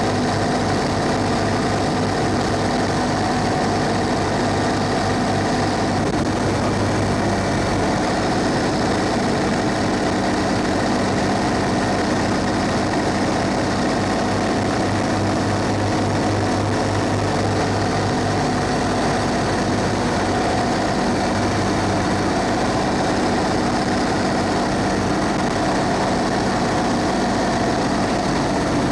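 Thomas Saf-T-Liner C2 school bus's Cummins ISB 6.7-litre diesel engine running steadily, with a slight shift in its tone about six seconds in.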